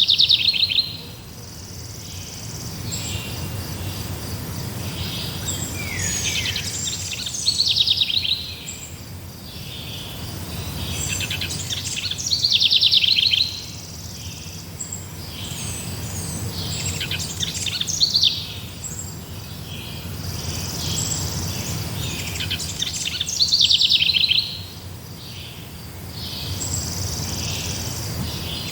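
Forest songbirds singing: one bird repeats a loud, fast, high trilled phrase about every five seconds, with fainter chirps from other birds between, over a steady low background hum.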